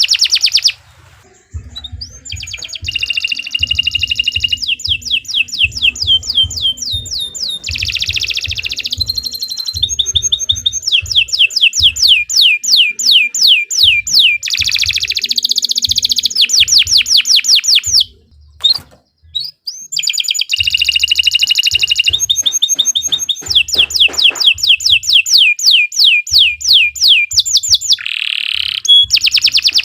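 Domestic canary singing a long song of fast rolling trills, each a rapid run of repeated sweeping notes, with a short break a little past halfway.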